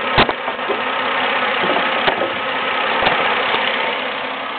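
2002 Dodge Stratus 2.7 L DOHC 24-valve V6 idling steadily and smoothly at high mileage. A few sharp knocks stand out over it: one just after the start, and others about two and three seconds in.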